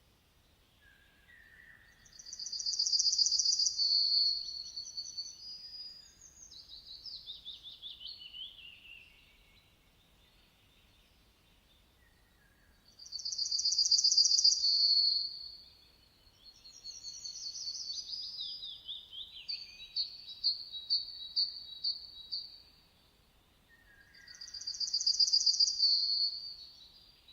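A songbird singing the same song phrase three times with pauses of a few seconds between. Each phrase opens with a loud, high trill, then runs into lower, falling notes and a series of quick chips.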